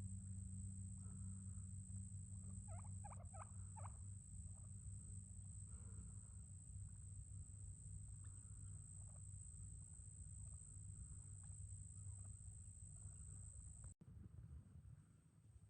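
Faint bird calls: a quick run of chirps about three seconds in, then scattered single calls, over a steady low hum and a steady high-pitched whine.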